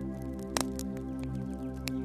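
Soft ambient music of held chords over a crackling wood fire. The fire gives scattered sharp pops, a loud one about half a second in and another near the end.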